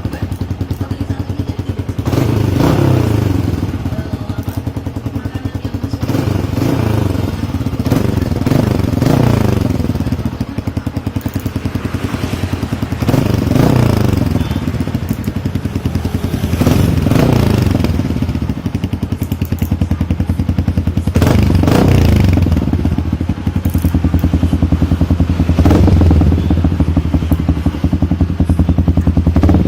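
Motorcycle engine through an aftermarket racing exhaust, idling and being revved repeatedly. Each blip rises and falls back to idle every few seconds.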